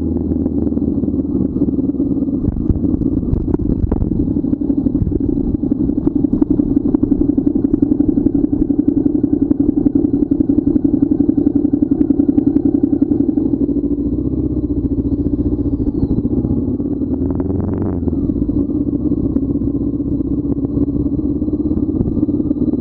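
Motorcycle engine running as the bike rides along, a steady drone that grows louder for a stretch in the middle, with a few sharp clicks.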